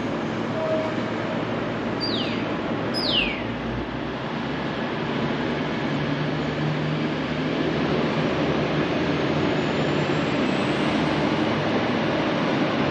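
V/Line VLocity diesel railcar train running into the station, a steady rumble that grows a little louder partway through. About two and three seconds in come two short high chirps, each falling in pitch.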